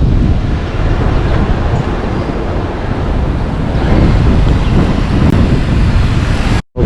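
Street traffic noise with wind buffeting the microphone: a loud, steady low rumble with no distinct events, cutting out abruptly for a moment near the end.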